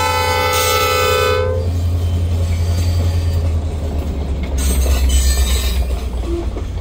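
EMD SD40-2 diesel locomotive's air horn sounding a steady chord that cuts off about a second and a half in. After it, the cars of a loaded freight train roll past the crossing with a steady low rumble.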